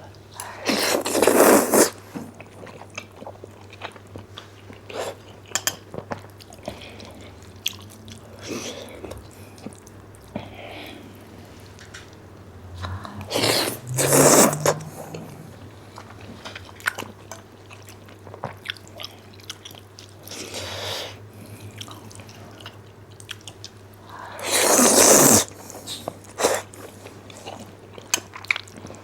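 People eating black bean noodles close to the microphone: wet chewing and smacking clicks throughout, with three loud noodle slurps about a second long, near the start, about halfway and near the end. A steady low hum runs underneath.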